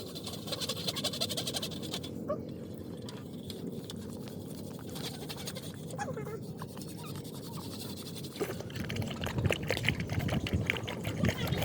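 Young animals nursing: a few faint squeaks and wet suckling noises over steady background noise. The sounds get busier and louder in the last few seconds.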